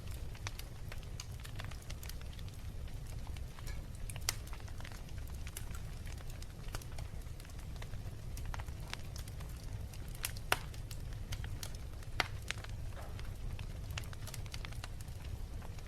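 Wood fire burning in a fireplace: scattered crackles and pops over a steady low rumble, with a few louder pops about four, ten and twelve seconds in.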